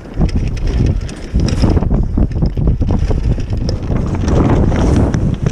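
Wind buffeting the microphone aboard a sailboat under sail: a loud, low, rumbling rush with a few short knocks and rattles.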